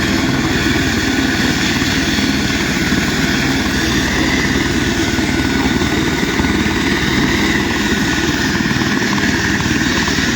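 An engine running steadily, a loud continuous drone with no change in pitch.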